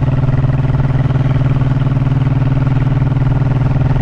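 Honda motorcycle engine running at a steady, even pitch.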